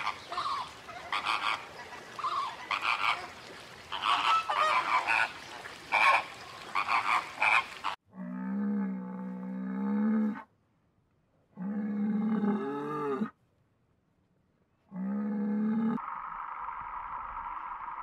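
A flock of flamingos honking and gabbling, many short overlapping calls, for about eight seconds. Then Highland cattle give three long moos, separated by silences. A steady hum takes over near the end.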